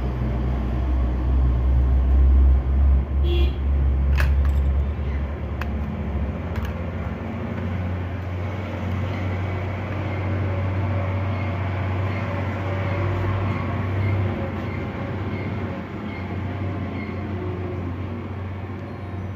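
Steady low rumbling hum, with a few sharp clicks in the first several seconds.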